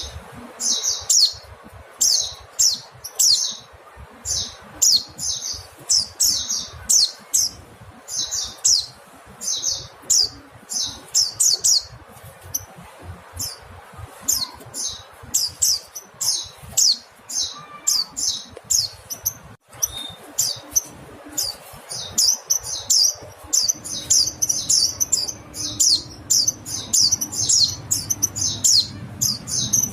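Mountain white-eye (pleci montanus) giving rapid high-pitched call notes in quick runs, with a brief break a little before two-thirds of the way through and denser calling after it.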